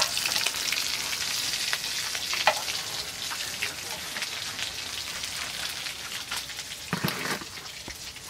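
Quesadillas sizzling in hot oil in a skillet, a steady frying hiss that grows fainter in the second half, with a few sharp clicks of a metal spatula.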